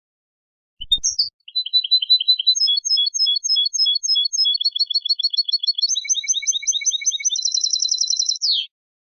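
European goldfinch (chardonneret) singing: starting about a second in, it sings a chain of quick runs of identical repeated notes, each run giving way to a new note type, and ends with a single falling note.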